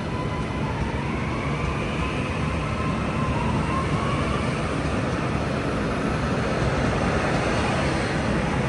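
A train running, a steady rumble with a faint whine that rises slightly in pitch in the first few seconds.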